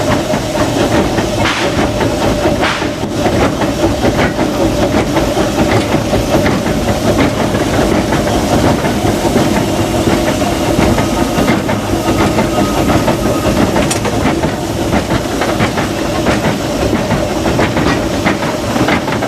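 Steam locomotive cab under way: a steady hiss of steam over the running gear and wheels clattering along the rails.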